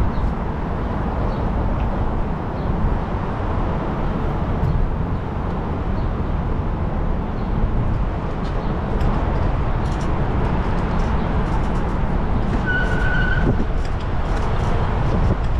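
Steady low wind and rolling noise from riding a bicycle, wind buffeting the microphone, with light ticks through the middle. A brief high tone sounds once about thirteen seconds in.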